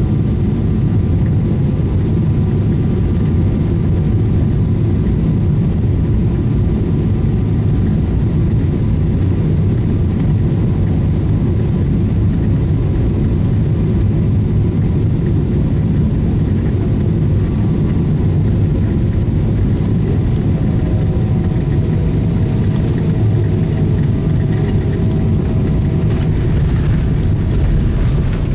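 Cabin noise of a Boeing 777-300ER heard from a passenger seat: a steady, loud low rumble of its GE90 engines and airflow, with faint engine tones that shift in pitch in the later part. Near the end a brighter hiss rises over it.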